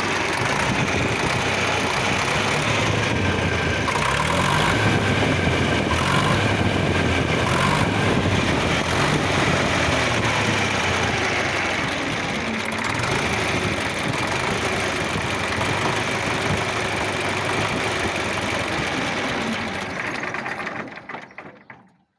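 D-65 four-cylinder tractor diesel running steadily with a knock in the engine, which the owner links to the high-pressure fuel injection pump. The sound fades out near the end.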